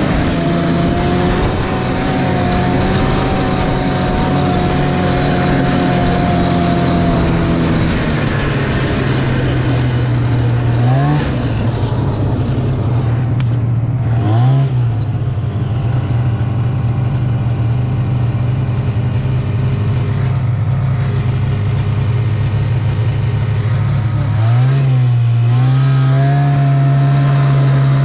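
Snowmobile engine running steadily at speed. Its pitch settles lower about eight seconds in, dips and comes back up twice in the middle as the throttle is eased and reopened, and rises again near the end.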